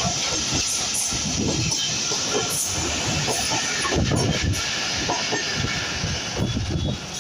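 A Bangladesh Railway train running past close by: a steady loud rumble and hiss of the moving train, with many irregular low knocks from the wheels and carriages.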